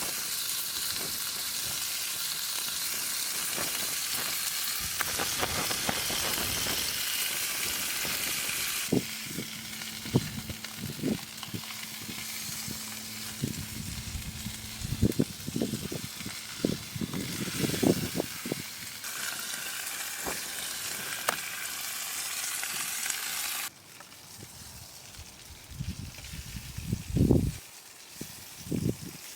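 Food sizzling in a frying pan, with clunks and scrapes of a utensil stirring it. Near the end the sizzle stops and only a few knocks are left.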